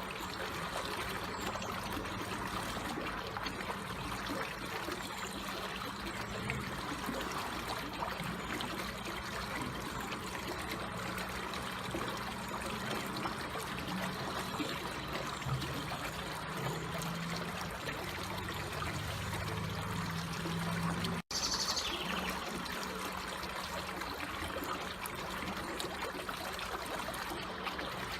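Slowly flowing water trickling steadily. The sound drops out for an instant about three-quarters of the way through, followed by a short high falling chirp.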